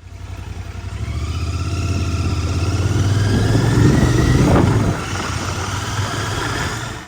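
Royal Enfield Continental GT 650's 648 cc parallel-twin engine and exhaust, rising steadily in pitch and loudness for about four seconds. Just before five seconds in it drops off as the throttle closes, then settles into a lower, steady beat.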